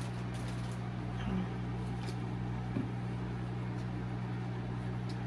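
Steady low hum of a running kitchen appliance, with a few faint clicks.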